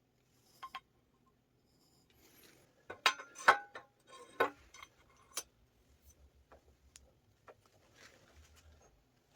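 Scattered light metallic clicks and clinks, like small metal parts or tools being handled, with a cluster of louder clinks about three to four and a half seconds in.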